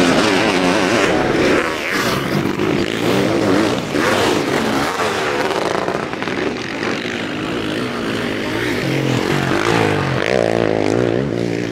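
Several sidecar motocross outfits' motorcycle engines revving hard, their pitch rising and falling as the riders work the throttles over the track.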